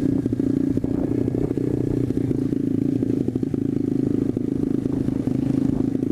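SSR125TR pit bike's 125cc single-cylinder four-stroke engine running at a steady pitch while being ridden, with rattling clatter from the bike over the ground.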